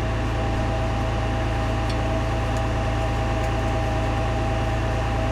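Steady mechanical hum with a constant tone and a low drone, and a few faint clicks.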